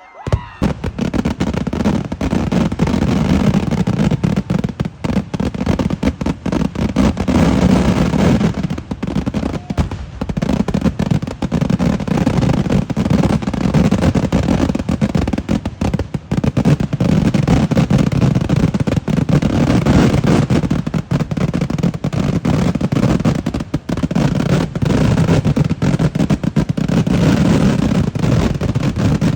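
Kerala temple-festival fireworks (vedikkettu): a dense, continuous barrage of rapid firecracker explosions, starting abruptly and going on without a pause.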